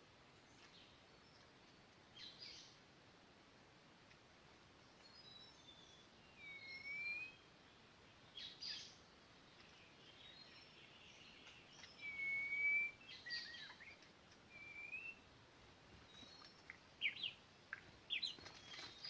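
Faint, scattered songbird calls: short whistled notes, some sliding up or down, coming every second or two, with a few quick chirps near the end.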